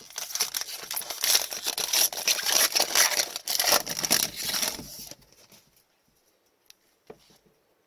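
Foil trading-card pack wrapper being torn open and crinkled, a dense crackling rustle that stops about five seconds in, followed by a few faint clicks.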